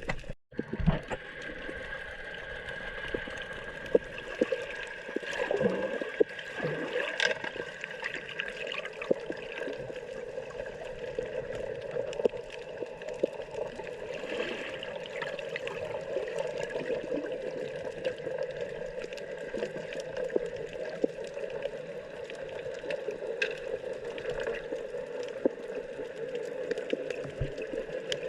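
Water sloshing and trickling over a steady hum, with many small scattered clicks.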